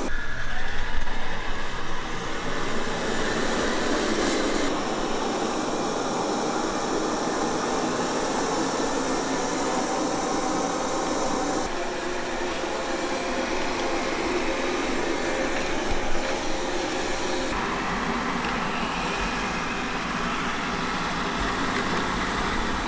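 Qihoo 360 S9 robot vacuum running with a steady motor and brush noise. The sound changes abruptly a few times.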